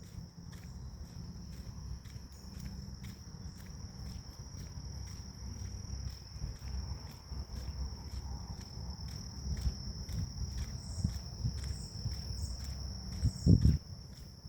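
Grass insects such as crickets keep up a steady high trill that pulses a few times a second, over a low rumble. A single thump near the end is the loudest sound.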